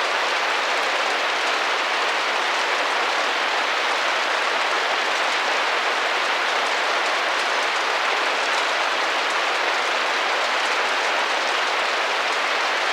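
Steady rain pattering against a glass window, an even hiss of many small drops with no single strikes standing out.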